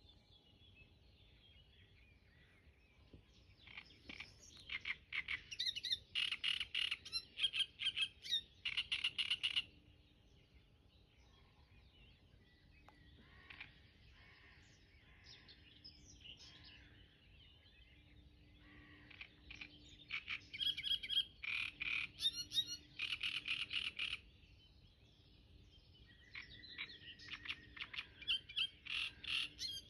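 Small songbird singing long, rapid twittering phrases, three bursts of about five seconds each, with sparser calls in between.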